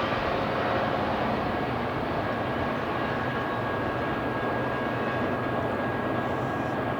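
BNSF freight train passing: a steady rumble of wheels on rail, with faint thin whining tones above it.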